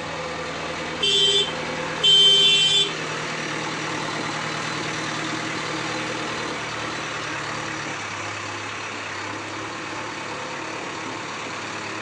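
Two vehicle horn honks, a short one about a second in and a longer one just after, over the steady running of idling engines in traffic.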